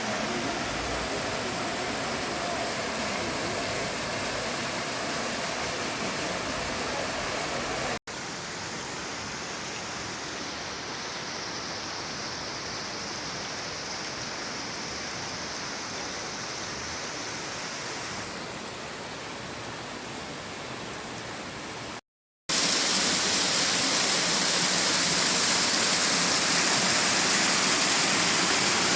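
Steady rush of water flowing in a creek, heard in three separate stretches that cut off suddenly about 8 and 22 seconds in; the last stretch is the loudest.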